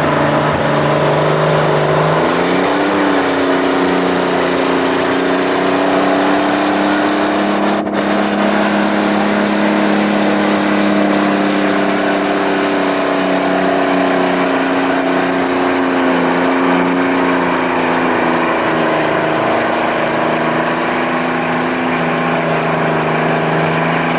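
Farm tractor engine pulling under full load on a tractor-pull sled run: it revs up about two seconds in, holds at high revs, and its pitch sags slightly near the end of the pull.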